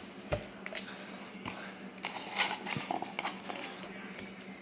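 Handling noise: a scatter of light clicks and knocks, about one every half second to second, with a brief rustle in the middle, as objects are picked up and moved about.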